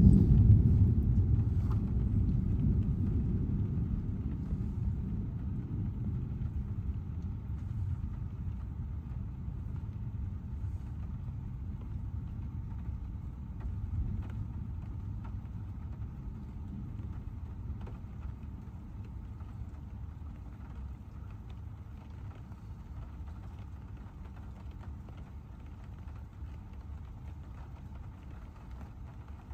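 A long, low rumble of thunder that fades slowly away after a close strike, ending in the steady low hum of the car on the road.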